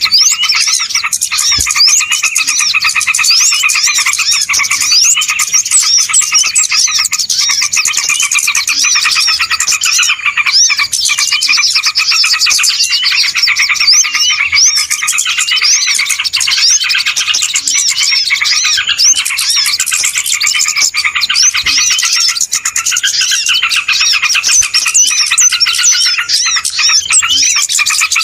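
Dense chorus of many small birds chirping at once, a steady wall of overlapping high chirps and quick whistled glides with no pauses: a bird-lure (pikat) recording of a noisy flock, played to draw wild birds in.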